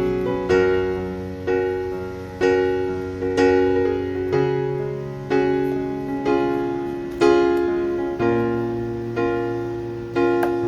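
Background music: a slow, gentle piano piece, with soft chords struck about once a second, each ringing out and fading, over held bass notes.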